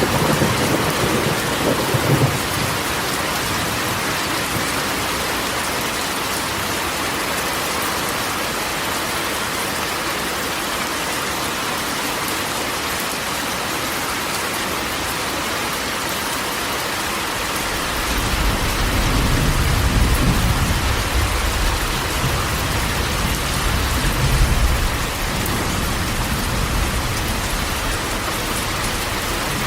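Steady rain drumming on a corrugated metal roof, with thunder rumbling low at the very start and again in a longer roll past the middle.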